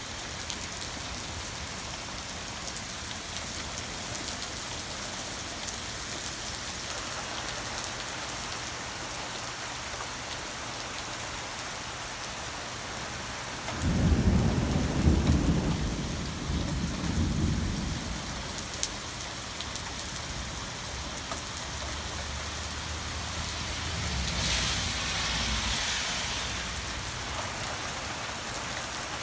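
Steady rain falling, with a loud rumble of thunder about halfway through that lasts several seconds, followed by a fainter, lower rumble a little later.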